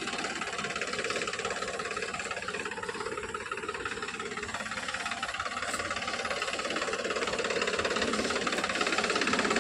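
Tractor engine running with a rapid, even chugging, growing slightly louder near the end.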